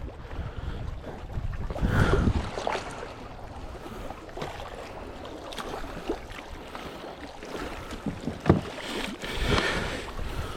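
Water splashing and sloshing beside a kayak, with light knocks and wind on the microphone. There is a louder splash about two seconds in and another near the end, fitting a bass being let back into the water.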